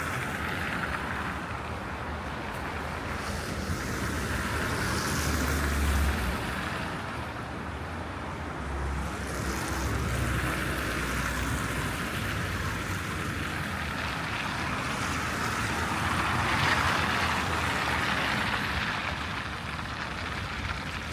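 Street traffic on a snowy city road: a steady wash of car and tyre noise that swells several times as vehicles pass.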